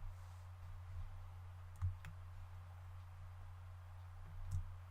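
A few computer mouse clicks, one about two seconds in and another near the end, over a steady low electrical hum.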